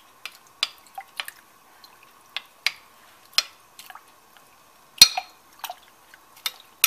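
Scattered sharp clicks and taps of a spoon against the cooking pot as peanut butter is spooned into the simmering kare kare stew, with the loudest knock about five seconds in.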